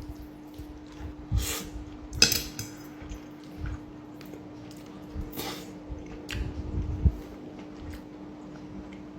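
Metal cutlery clinking and scraping against a plate while eating risotto, with a few sharper clinks about one and a half, two and five and a half seconds in.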